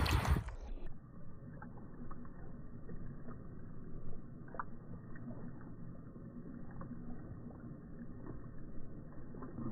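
A Jack Russell terrier lapping water, slowed down: a low, muffled sloshing with a few faint clicks, after a brief louder splashing at normal speed that cuts off within the first second.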